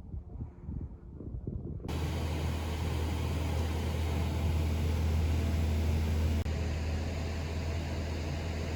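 Steady rumble and low hum of a moving vehicle heard from inside, starting abruptly about two seconds in after a quieter stretch of rumble.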